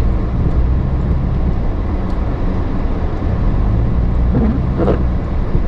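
Lifted 2006 Chevy Silverado pickup's engine running with a steady low hum, heard from inside the cab.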